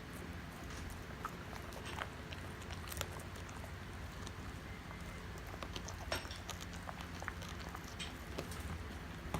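Great Pyrenees chewing a dried horse Achilles tendon: scattered crunches and clicks of teeth on the hard chew, over a steady low hum.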